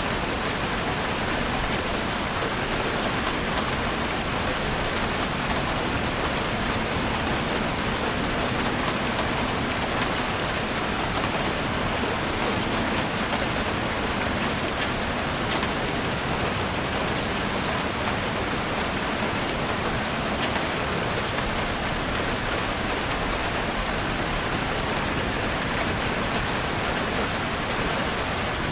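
Heavy rain falling steadily on a chalet roof, a dense even hiss with many fine drop taps.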